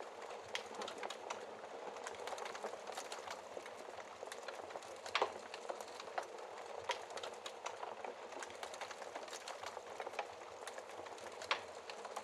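Wood fire crackling: a steady soft hiss with irregular sharp pops and snaps, a few louder pops about five seconds in, near seven seconds and near the end.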